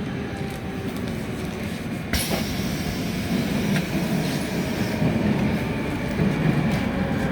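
Train running with a steady rumble. About two seconds in a hissing rush sets in abruptly, and the noise grows slightly louder after it.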